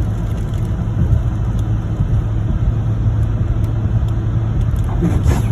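Steady low drone of a pickup truck driving on a plowed, snowy highway, heard from inside the cab: engine hum and tyre noise.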